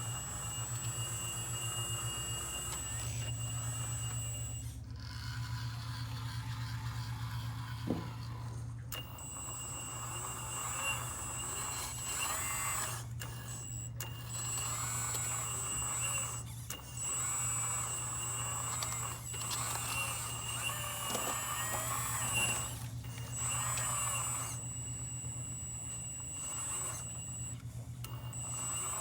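MAGOM HRC 330D CAT remote-control hydraulic excavator running: a steady low hum under a high-pitched electric whine that stops and starts again several times as it works.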